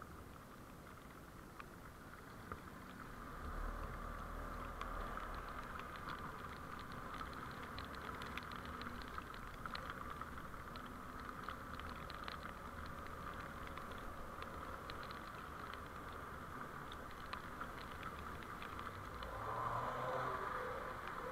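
Vehicle driving noise picked up by a dashcam: a steady road-and-engine hum with many small ticks, and a low rumble that comes in about three seconds in.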